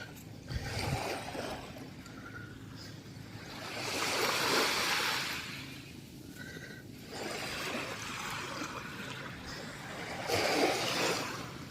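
Small waves washing onto a sandy beach, the surf swelling up loudest twice, about four seconds in and again near the end.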